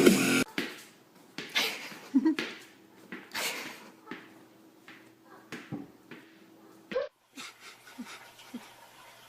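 A pet animal making a run of short breathy, hissy noises, about six in all, with a few brief low squeaky cries between them.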